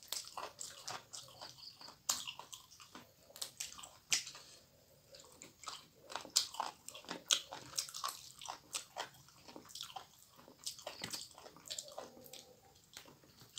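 Close-miked biting and chewing of raw mizen leaves and food, with many irregular crisp crunching clicks and wet mouth sounds.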